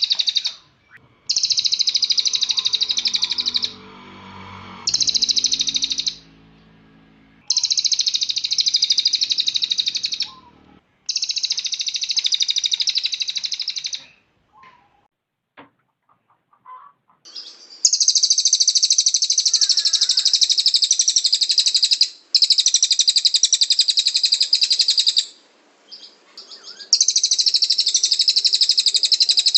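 Cililin songbird singing its rapid-fire 'tembakan' song: long bursts of very fast, high trilled notes, each lasting one to four seconds, repeated again and again with short pauses between.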